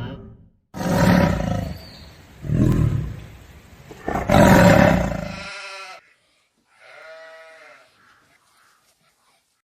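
A large animal roaring: three loud, rough calls about a second and a half apart, then a fainter, higher, pitched call near the end.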